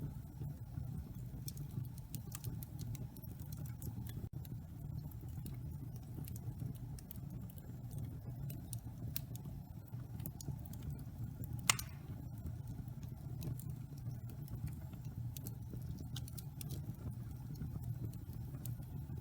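Wood fire burning in a fireplace: a steady low rumble of flame with scattered small crackles, and one louder snap a little past the middle.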